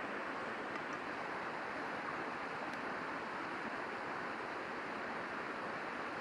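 Steady rush of a river flowing close by, an even unbroken water noise.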